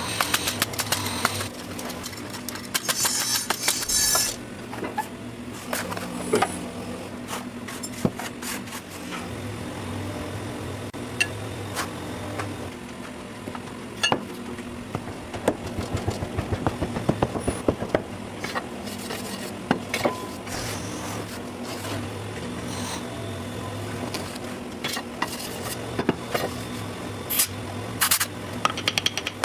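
A machine running steadily, with many sharp clinks and knocks over it and a couple of short hissing bursts, one about three seconds in and one near the end.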